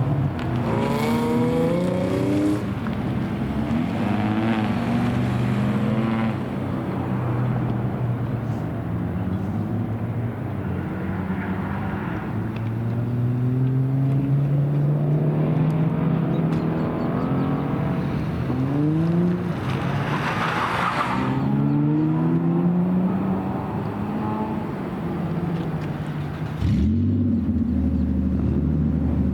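Car engines revving and accelerating away and past, their pitch repeatedly climbing and falling with several engines overlapping. About 27 seconds in, the engine sounds stop abruptly and a steady low tone takes over.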